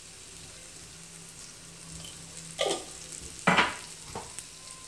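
Sliced onions frying in oil in an aluminium kadai, a soft steady sizzle. Two short, louder knocks or scrapes come about two and a half and three and a half seconds in.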